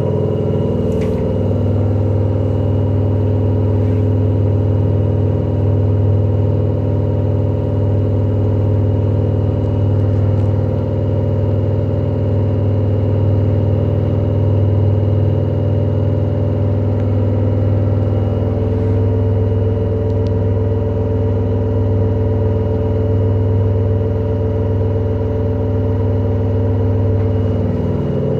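LG direct-drive washing machine spinning at a steady speed, giving a loud, constant hum and drone at one steady pitch: the extreme noise during the spin cycle that marks this machine's fault.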